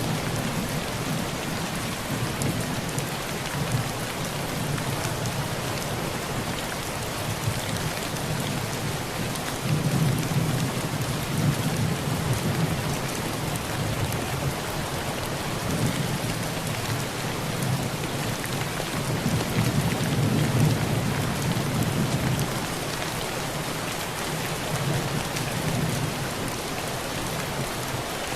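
Heavy rain falling steadily on a tin roof, with low thunder rolling in twice, about ten seconds in and again around twenty seconds.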